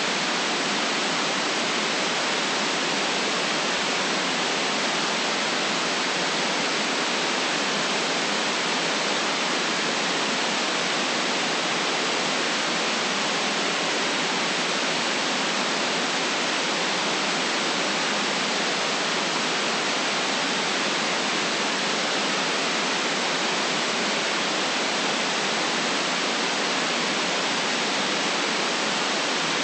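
Steady synthetic white noise: an even, unchanging hiss with no rises, breaks or other sounds, cut off sharply above and below.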